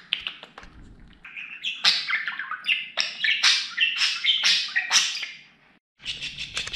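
Budgerigar warbling and chattering: a fast run of high chirps and squawky notes that breaks off abruptly near the end, then resumes.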